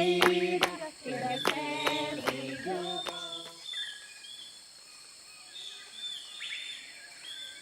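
Voices singing unaccompanied, with sharp knocks in time, stop about three and a half seconds in. Faint bird chirps and short falling calls then continue over a steady high insect-like hiss.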